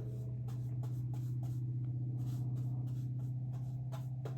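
A paintbrush scrubbing acrylic paint onto canvas in short, irregular strokes, about three a second, over a steady low hum.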